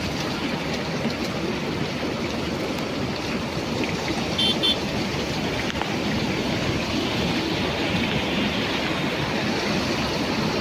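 Steady rush of water from heavy rain and a swollen river, with a few brief high chirps about four and a half seconds in.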